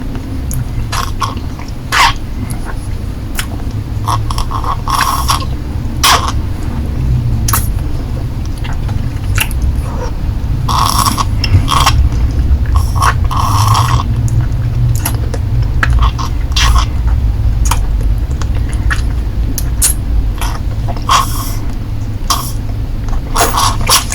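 Close-miked mouth sounds of a lollipop being sucked and licked: irregular wet clicks, smacks and slurps, some longer bursts among the short ones, over a steady low hum.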